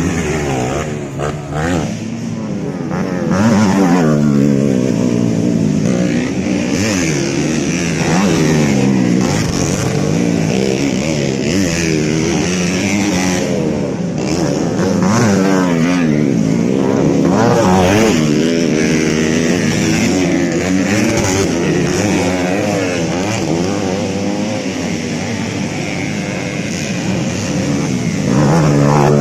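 Motocross motorcycles racing, several engines overlapping and revving up and down repeatedly as the bikes accelerate and back off.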